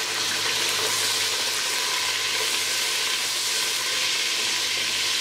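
Thick chunks of potato sizzling steadily in hot oil in a steel pot, stirred with a silicone spatula.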